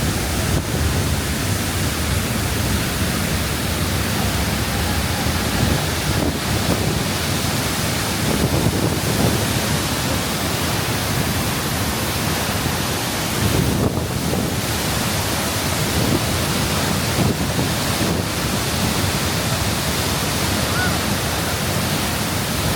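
Steady, dense rush of the Nungnung waterfall's falling water.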